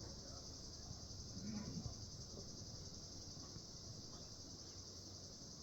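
Insect chorus, a steady high-pitched shrill that keeps on without a break, faint over a low background.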